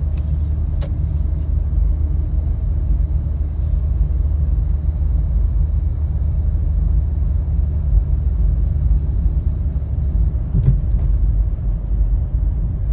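Steady low road rumble inside the cabin of a Toyota Prius while it is driving, with a few faint clicks.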